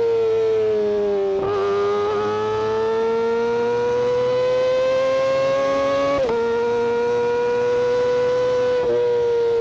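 Kawasaki Ninja ZX-25R's 249 cc inline-four engine at high revs through its exhaust, a high, loud wail whose pitch climbs steadily for several seconds, then drops abruptly about six seconds in as at an upshift, and holds.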